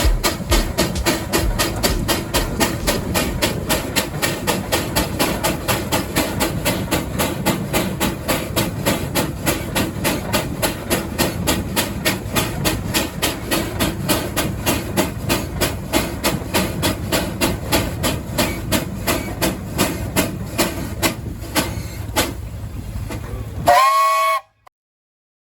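Old engine running with a steady, even exhaust beat, about three beats a second, over a hiss. Near the end a short whistle blast sounds and the sound cuts off.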